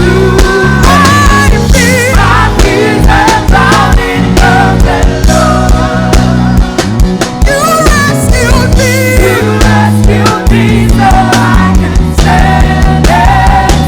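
Live worship music: singers with a band, bass and drums, in a full, loud gospel-style arrangement.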